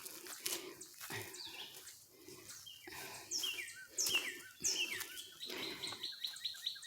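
Wild birds calling: a few short, downward-sliding chirps, then from about five seconds in a fast, even trill of repeated notes. Light crunching or rustling underneath in the first few seconds.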